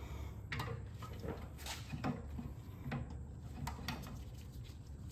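A few light, scattered clicks and clunks of metal parts and tools being handled at a workbench, over a low steady hum.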